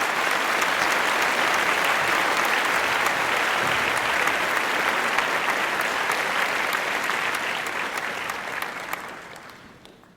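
Audience applauding: a dense, steady clapping that fades away near the end.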